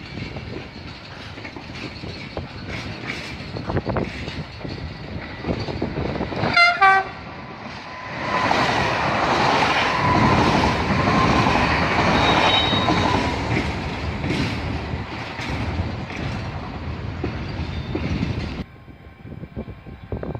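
Freight wagons roll past with a rumble and a clickety-clack of wheels over the rail joints and points. About a third of the way in, a train horn sounds once, short and loud. A double-deck passenger train then passes close with a louder steady rush of wheels on rails, and near the end the sound cuts to a quieter rumble.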